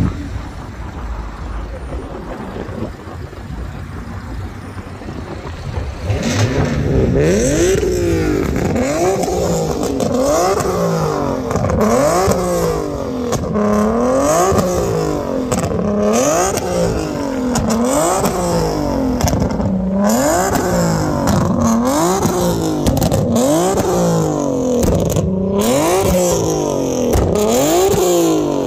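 Infiniti G-series sedan's V6 engine revved again and again while parked, the pitch climbing and dropping about every second and a half, starting about six seconds in.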